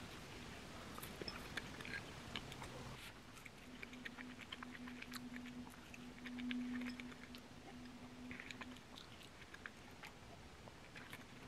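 Faint chewing and small mouth clicks of someone eating a piece of food. A low steady hum comes in a few seconds in and stops about three seconds before the end.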